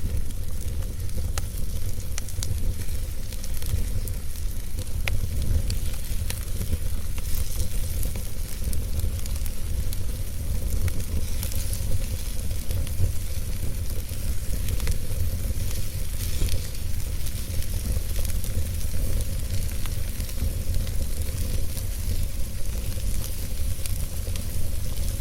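Wood fire burning in a fireplace: a steady low rumble and hiss of flames, with scattered sharp crackles and pops from the burning wood.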